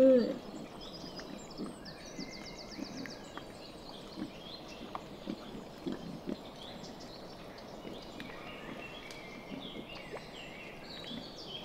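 Piglets rooting and feeding on straw, with soft short grunts and snuffles every second or so; a louder grunt ends right at the start. Small birds chirp faintly in the background.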